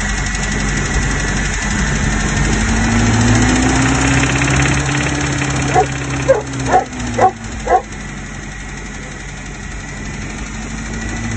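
A 1993 Toyota 22RE 2.4-litre four-cylinder engine runs and slowly rises in speed, then settles back. The owner reports a rattle and knocking from this engine, along with power loss and oil pressure that drops to 5 PSI at warm idle. Past halfway a dog barks five times in quick succession, louder than the engine.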